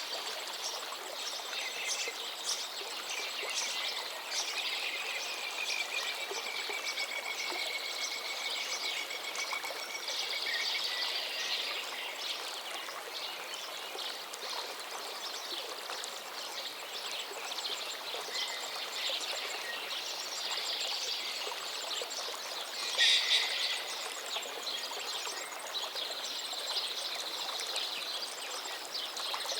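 River water running steadily, with several birds singing and calling over it. One bird gives a long, drawn-out call about a quarter of the way in, and a louder, brief call comes about three-quarters through.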